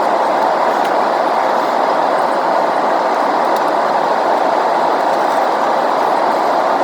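Steady airliner cabin noise in flight: an even, unbroken rushing hum with no changes.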